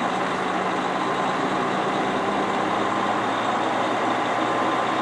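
Semi truck's diesel engine running steadily, heard from inside the cab as a constant hum with a little road noise.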